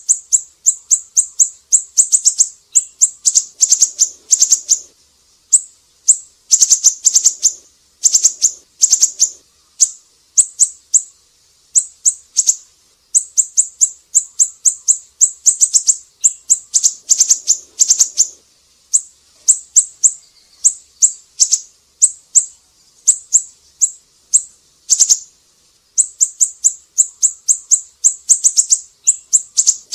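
Siri-siri bird singing: rapid runs of very high, thin chirping notes in bursts of a second or two, repeated with short pauses between them.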